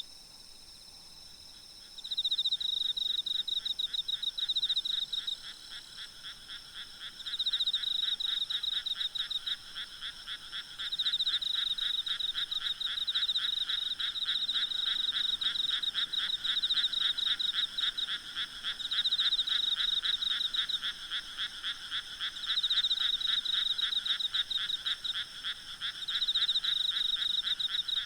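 Chorus of frogs calling in fast pulsed trills, coming in waves a few seconds long with short lulls, over a faint steady hum of night insects.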